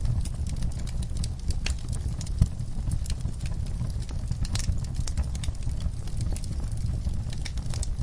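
Wood fire in a fireplace crackling, with irregular sharp pops over a low steady rumble; one pop about two and a half seconds in stands out as the loudest.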